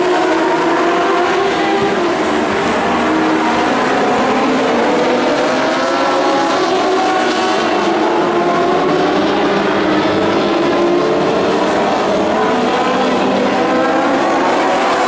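A pack of dwarf race cars running at speed, several high-revving engines heard at once, their pitches rising and falling as they circle the track.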